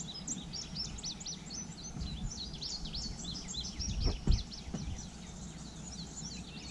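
Small birds chirping, a rapid run of short high notes, over a low rumble, with a single knock about four seconds in.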